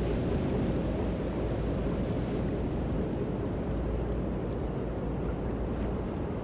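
Low, steady rushing of sea and wind, an ambience of ships under way on open water.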